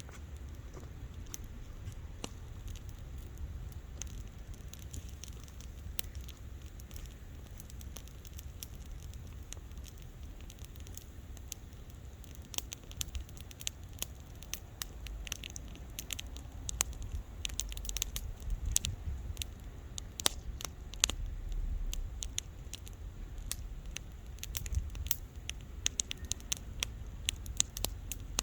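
Wood bonfire crackling, with sharp pops and snaps over a low steady rumble. The pops are sparse at first and come thicker and louder from about halfway through.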